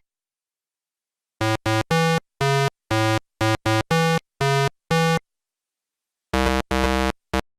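Short electronic synthesizer tune: about ten quick, separate notes, then a pause and three more notes near the end.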